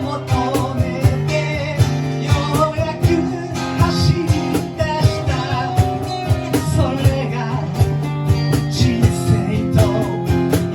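A band playing a rock song live: guitars and bass over a steady drum beat, in an instrumental stretch between sung lines.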